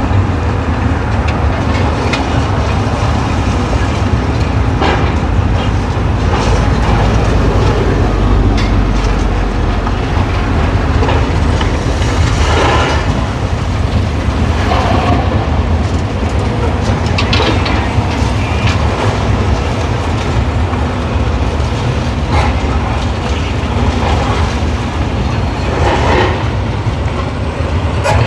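Demolition machinery working on concrete: a diesel engine runs steadily underneath, with irregular clanks and crunches as it breaks and pulls down the structure.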